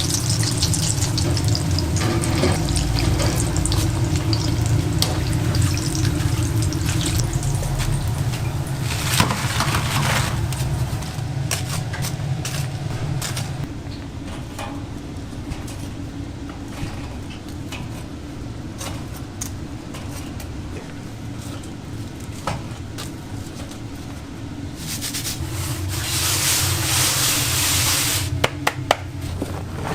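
Dough frying in hot oil in a shop fryer, a steady sizzle. It drops lower about halfway through and swells again near the end, where a few sharp clicks come in.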